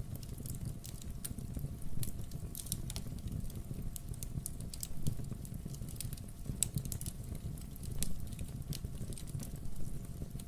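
Wood fire burning in a fireplace: steady crackling with frequent sharp pops over a low rumble of the flames.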